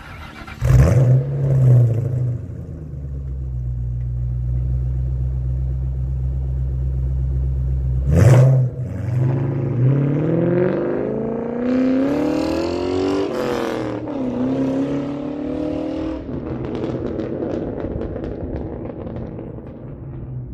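2003 Ford Mustang Mach 1's 4.6-litre DOHC V8 through an aftermarket Carven exhaust, firing up with a quick flare and settling into a loud, steady idle. About eight seconds in it is blipped, then revved up slowly to a peak, dropped, held at higher revs for a couple of seconds and let fall back toward idle.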